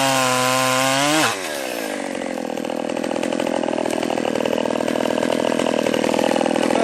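Small Stihl 020 two-stroke chainsaw held at full throttle with a steady high whine, revving up sharply and then dropping to a lower, rattly idle about a second in.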